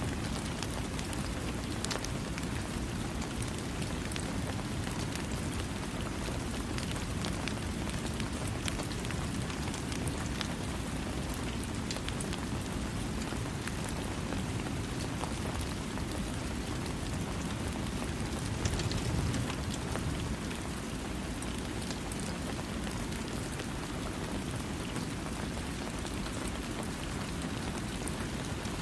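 Steady rain falling, with countless drops pattering on a surface. The rain swells briefly about two-thirds of the way through.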